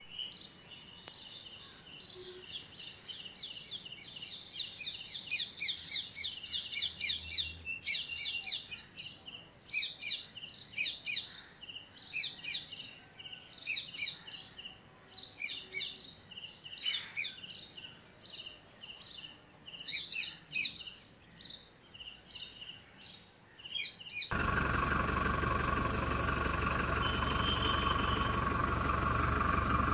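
Small birds chirping and twittering in quick, overlapping calls. About 24 seconds in, a steady truck-engine idling sound starts abruptly and carries on, with faint chirps still above it.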